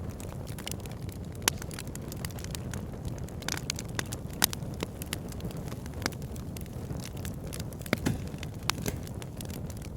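Campfire burning: a steady low rush of flames with constant crackling of burning wood, and a few louder, sharper pops scattered through.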